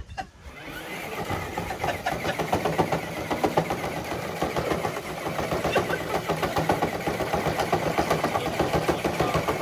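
Electric RC scale truck's motor and drivetrain running under load as it pulls a weighted sled, starting about half a second in: a steady hum with a fast, dense chatter over it.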